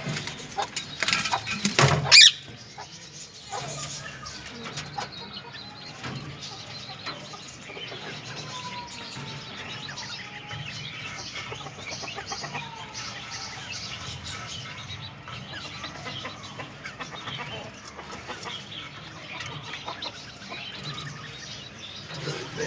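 Green parrots chattering and squawking, with loud harsh squawks in the first two seconds, then continuous busy chirping with a few short whistled glides.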